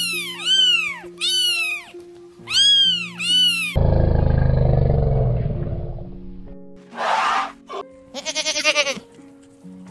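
A domestic cat meowing several times, then an elephant giving a loud, deep call that fades over about three seconds, then a goat bleating with a quavering voice near the end, all over background music.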